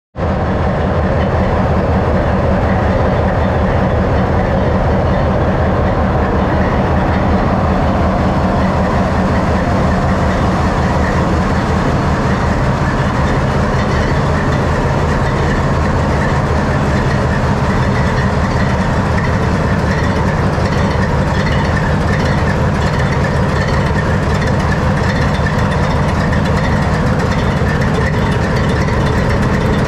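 ALCO 244 diesel engine of a 43 class (Goninan/AEI UM118T) locomotive idling steadily, heard close up inside the engine room with a dense, even pulsing rumble.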